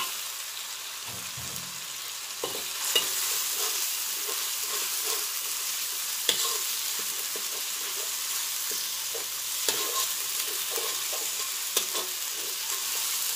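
Blended chili paste of dried chilies, onion, garlic and ginger sizzling in hot oil in a wok, with a steady hiss. A metal slotted spatula stirs it, scraping and clicking against the pan a few times.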